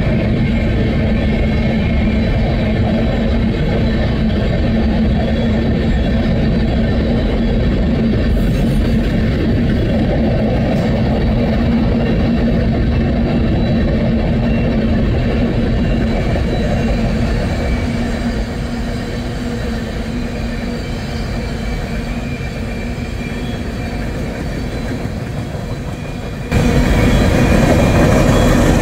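A train running on rails: a steady rumble of wheels on track with a steady hum. It drops a little quieter part way through, then jumps back up suddenly near the end.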